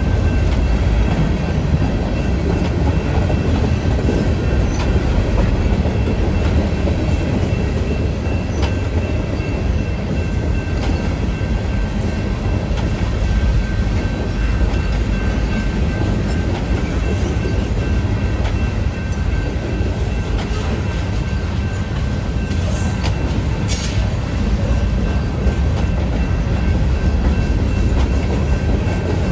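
Freight train cars rolling past at speed: a steady heavy rumble with scattered clicks of wheels over the rails, and a steady high tone running through it.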